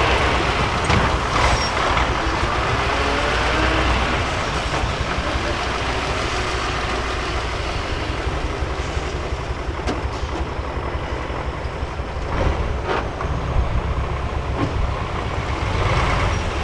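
Heavy diesel engine of a 6x6 Ural prototype trial truck running under load, its pitch rising and falling as it revs, with a few sharp knocks in the second half.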